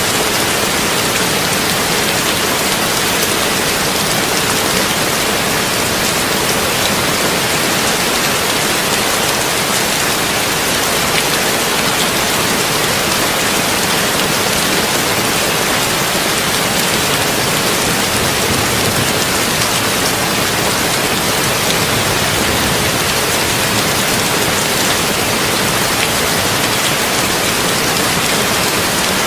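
Heavy rain drumming steadily on a tin roof, an even, unbroken hiss.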